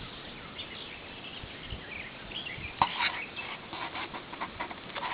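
Steady rush of water and wind. Short high calls and clicks sound over it in the second half, the loudest a sharp click about three seconds in.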